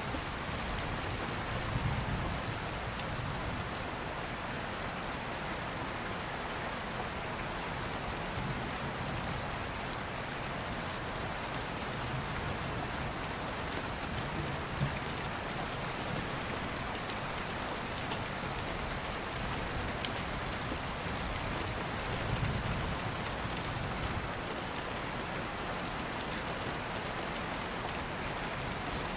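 Steady rain falling, with several soft low rumbles of distant thunder and a few sharp ticks.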